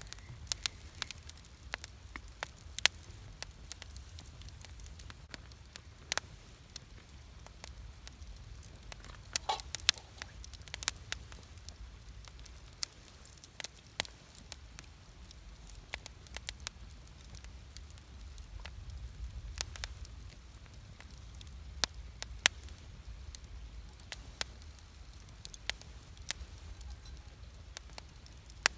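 Wood campfire crackling: irregular sharp pops and snaps of burning wood, several a second, over a low steady rumble.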